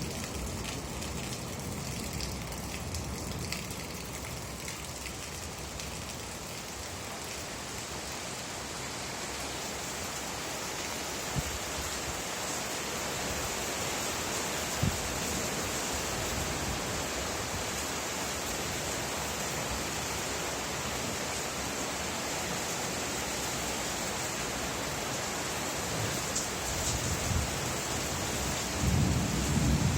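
Steady rain falling, an even hiss with a few isolated drop ticks, and a low thunder rumble starting to build near the end.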